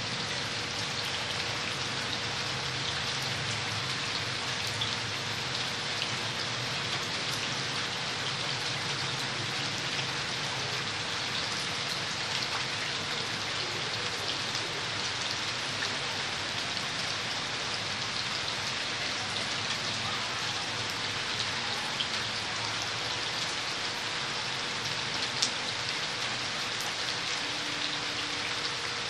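A steady hiss, with scattered faint ticks through it and a faint steady hum underneath.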